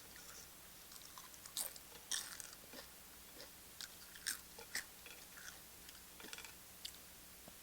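Close-up chewing of tortilla chips: irregular sharp crunches and crackles between quieter chewing, the loudest about a second and a half, two and four and a half seconds in.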